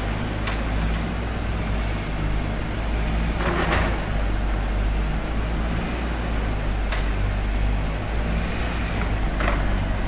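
Construction-site machinery running steadily with a low engine rumble, and a few scattered knocks and a brief scrape over it.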